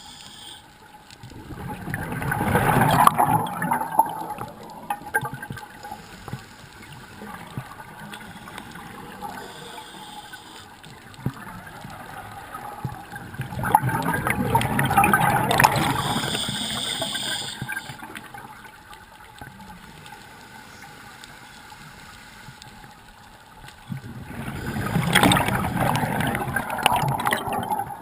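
Scuba diver's exhaled bubbles rushing out of the regulator, heard underwater: three long exhalations about ten seconds apart, with quieter water noise between breaths.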